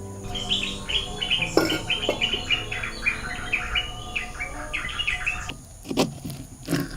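A small songbird chirping: a fast run of short high notes lasting about five seconds, then stopping. A few sharp knocks sound near the end.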